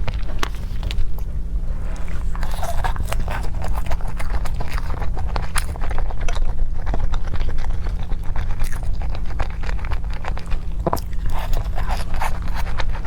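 A person chewing and biting into food close to the microphone, with irregular crunchy, crackly clicks, over a steady low hum.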